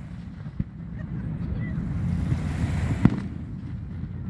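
Fireworks shells exploding high over a lake: a soft bang about half a second in and a sharper, louder bang about three seconds in, over a steady low rumble.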